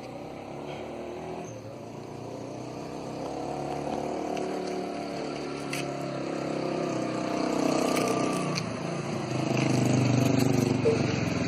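Engine of a motor vehicle running with a steady note that shifts slowly in pitch, growing gradually louder and loudest near the end.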